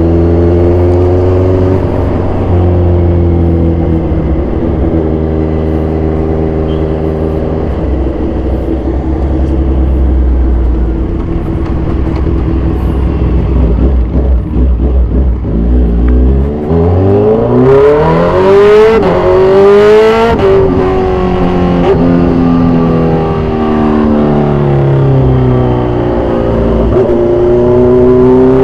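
2014 Kawasaki Z1000's 1043 cc inline-four, with an aftermarket exhaust, running loud while riding. The engine note holds at first and shifts in steps, then about two-thirds of the way in it revs up hard in a steep rising howl, drops back and settles.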